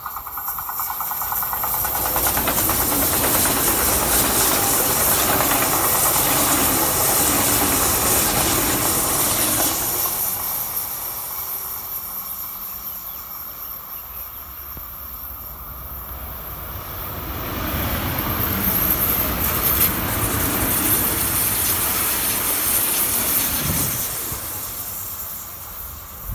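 Electric passenger trains passing at speed on an overhead-wired main line, heard as a loud rush of wheels and air. A first pass builds over the first couple of seconds and eases off about ten seconds in; a second pass swells again about two-thirds of the way through and fades near the end. The trains are a white ICE high-speed train and a red DB regional electric multiple unit.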